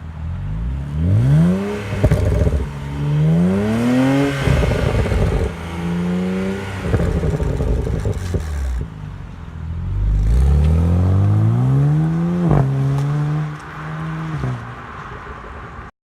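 BMW Z4 sDrive35is twin-turbo straight-six revving through its stock exhaust: four throttle blips, each climbing in pitch and falling back, the longest about ten seconds in. Sharp cracks come as the throttle is released, and the sound cuts off suddenly near the end.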